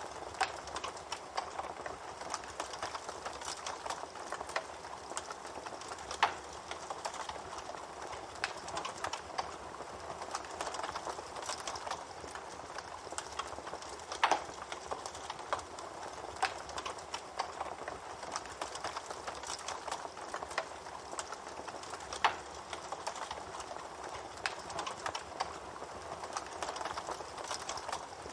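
Wood campfire crackling steadily, with a dense patter of small snaps and a few louder pops spaced several seconds apart.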